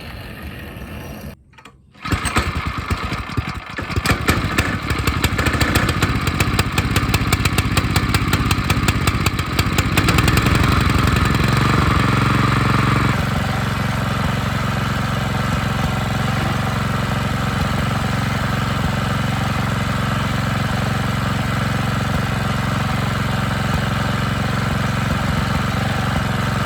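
Baja Warrior minibike's small single-cylinder engine with a stage 1 kit, catching about two seconds in and running unevenly with rising revs, then settling to a steady idle about thirteen seconds in.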